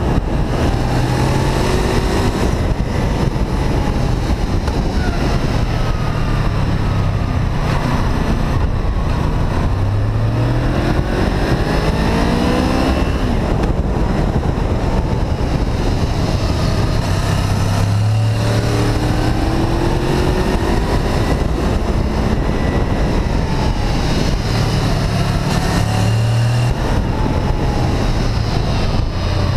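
Honda VFR800 VTEC's V4 engine under way, repeatedly climbing in pitch as it accelerates, then dropping back at gear changes or when the throttle closes. Steady wind rush runs under it.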